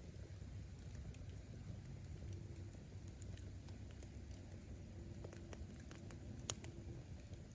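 Wood bonfire burning: a steady low rumble of the flames with scattered small crackles of firewood, and one sharper pop near the end.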